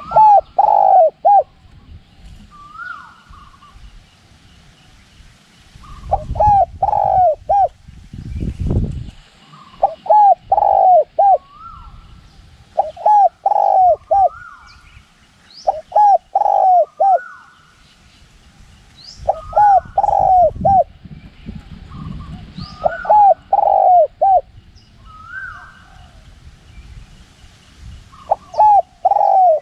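Spotted dove cooing over and over in short phrases of three or four coos, a few seconds apart. Gusts of wind rumble on the microphone twice, and fainter calls and chirps from other birds sound between the phrases.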